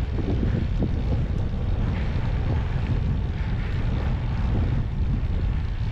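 Wind buffeting the microphone during an e-bike ride: a steady low rumble with no break.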